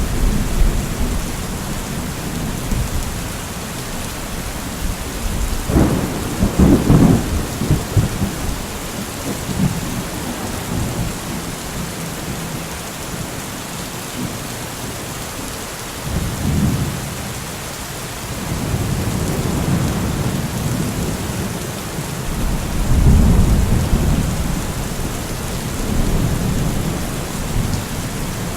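Steady rain falling, with rolls of thunder rumbling through it: a sharper crackling peal about six seconds in, then slower low rumbles around the middle and again a little before the end.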